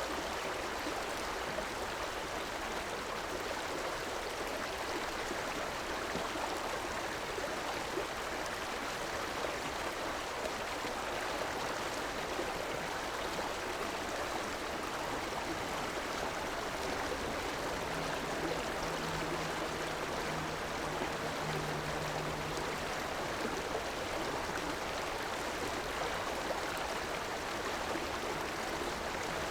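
River water rushing and gurgling steadily over rocks, an even wash of sound. A faint low hum joins it for a few seconds past the middle.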